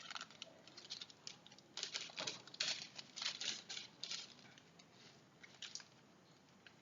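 Handling of a full-metal spring airsoft pistol and its magazine: an irregular patter of small clicks and scrapes of metal and plastic parts, which dies away about a second before the end.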